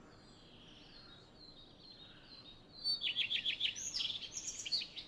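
Songbird singing: faint thin high whistles, then from about three seconds in a quick run of louder chirps and trills lasting about two seconds.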